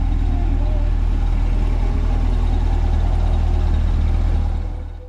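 Stock C8 Corvette's V8 idling steadily, fading out near the end.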